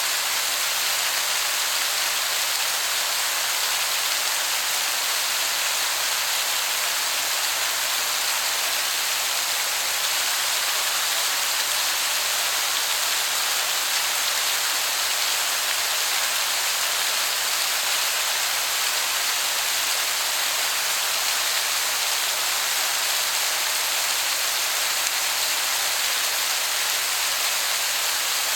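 Waterfall, heard from a distance as a steady hiss that sounds like heavy rain.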